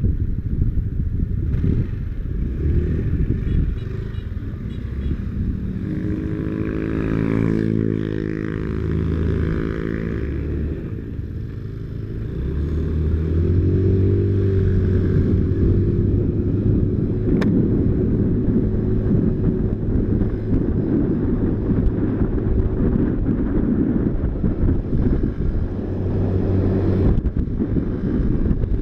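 Motorcycle engine running while riding, its note shifting up and down in the first half, then holding steady and louder from about halfway.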